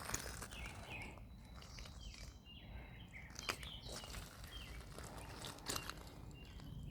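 Birds chirping in short, scattered calls, with a few faint crunches.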